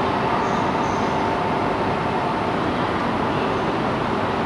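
Steady hum and whir of a powered-up E2 series Shinkansen standing at a station platform, with a few faint steady tones and no sudden sounds.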